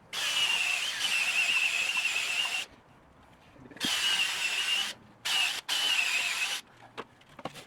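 A power tool run in four bursts, the first about two and a half seconds long and the others shorter, each a loud hiss with a steady high whine that starts and stops abruptly.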